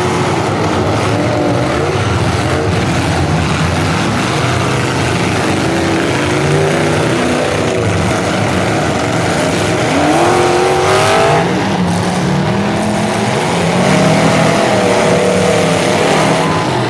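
Several full-size demolition derby cars' engines revving hard and falling back, their pitches overlapping and rising and falling, with one sharp rising rev about ten seconds in.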